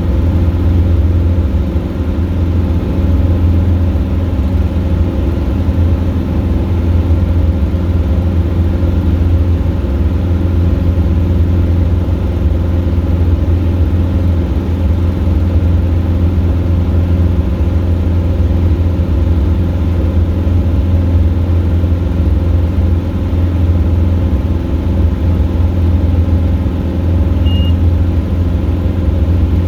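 Robin DR400 light aircraft's piston engine and propeller running steadily at power in flight, a constant loud drone. A short high beep sounds near the end.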